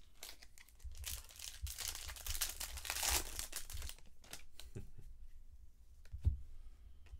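Foil wrapper of a trading card pack crinkling and tearing for about three seconds as it is opened, followed by a few light clicks of handled cards and a single knock near the end.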